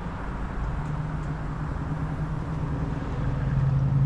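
Road traffic: a vehicle engine's steady low hum over road noise, getting louder near the end.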